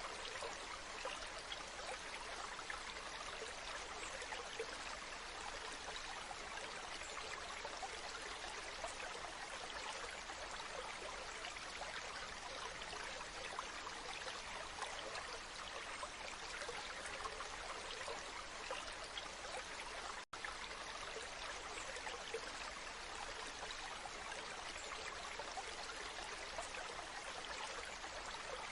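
Waterfall: falling water rushing steadily and evenly, with a split-second gap about two-thirds of the way through.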